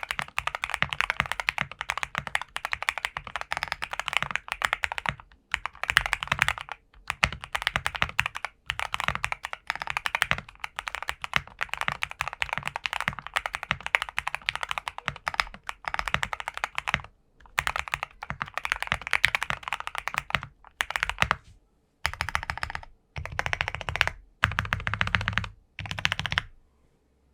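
Typing on a Nova65 mechanical keyboard with Gateron Black Ink V2 linear switches: fast, continuous runs of key clacks broken by brief pauses. Toward the end the typing comes in shorter separate bursts with a deeper tone, then stops.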